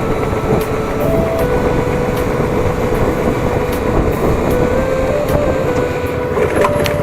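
Steady wind rush and running noise of a motorcycle on the move, rumbling without a break.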